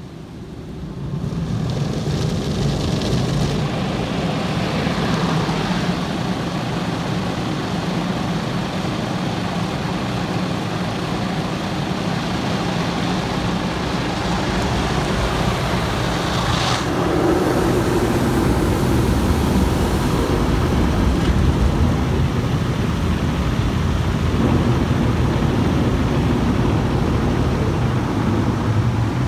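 Car wash running: a steady mechanical hum under an even rush of spraying and scrubbing noise. A brief sweep comes just past halfway, and the hum deepens after it.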